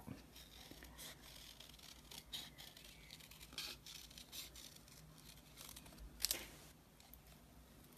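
Scissors cutting a stamped leaf shape out of cardstock by hand: faint, scattered snips and paper rustling, with one sharper click about six seconds in.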